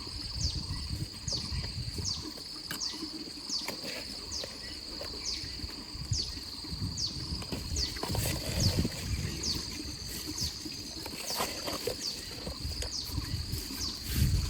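Insects drone steadily and shrilly, with a short falling chirp repeating about every 0.7 seconds on top. Irregular low thuds and rustles come and go, loudest about eight seconds in.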